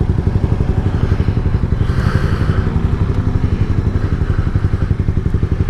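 Yamaha MT-07's parallel-twin engine running steadily under way, a low, evenly pulsing exhaust note. A brief hiss rises over it about two seconds in.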